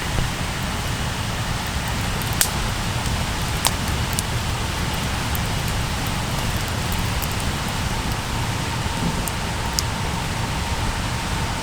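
Wood campfire crackling, with a few sharp pops spaced a second or more apart over a steady rushing hiss and low rumble.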